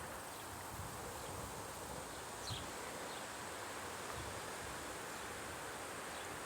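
Faint outdoor ambience with a steady high insect drone, and one brief faint chirp about two and a half seconds in.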